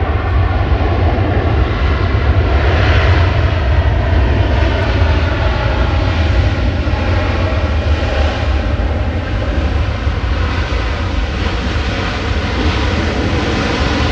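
Jet airliner engines running at high power close by: a loud, steady rumble with a faint whining tone over it, easing slightly near the end.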